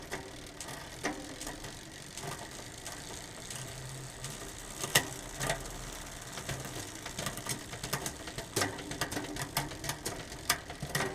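Road bike's 10-speed Shimano Ultegra drivetrain turned by hand while being shifted through the gears: the chain runs over the cassette, with irregular clicks of shifting and ratcheting, one sharp loud click about five seconds in, and a busier run of clicks near the end.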